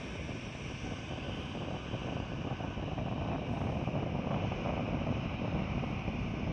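Steady rumble of an airliner's jet engines after takeoff, growing a little louder about halfway through.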